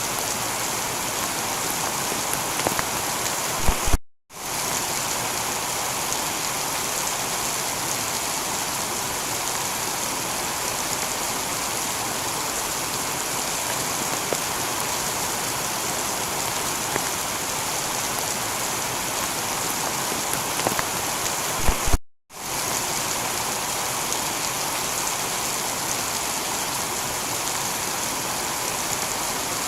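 Heavy, steady rain falling on a tiled roof. The sound drops out for a split second twice, about four seconds in and again about 22 seconds in.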